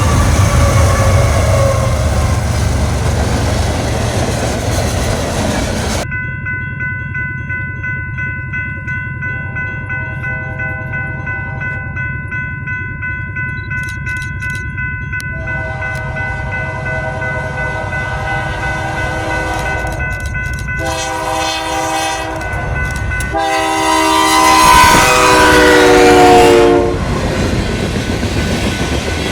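Diesel freight locomotive horns sounding multi-note chords over the rumble of a passing train. The first chord falls in pitch as the locomotive goes by. About six seconds in, the sound cuts to a horn chord held steady. Near the end, a louder chord again drops in pitch as the locomotive passes.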